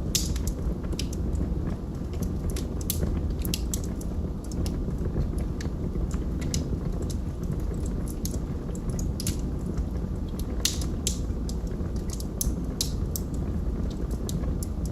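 Log fire burning, with a steady low rumble of flames and frequent sharp crackles and pops from the burning wood.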